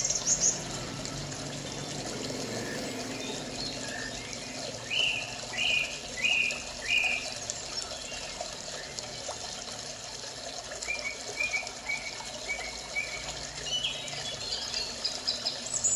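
Birds chirping in short repeated series over a steady hiss: four louder chirps about five seconds in, then a quicker run of softer chirps about eleven seconds in, and more near the end.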